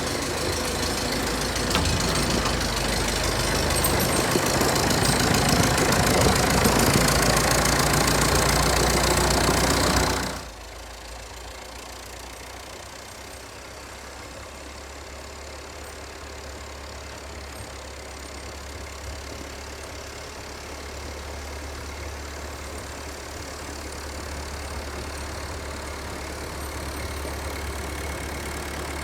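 Engine of a 64-year-old Volvo tractor running. It is loud, with a lot of high hiss, for about the first ten seconds, then drops suddenly to a much quieter, steady low drone.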